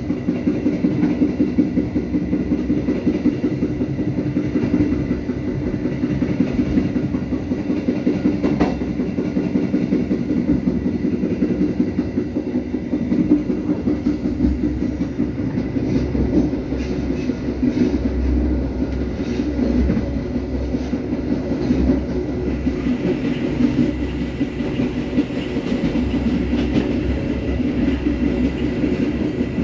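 Passenger train carriage running along the track, its wheels rumbling steadily on the rails with occasional clicks, heard from inside the carriage. A deeper rumble swells for several seconds past the middle.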